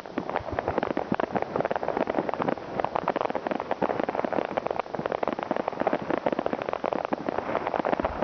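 Many fireworks and firecrackers going off at once: a dense, continuous crackling and popping with no pause.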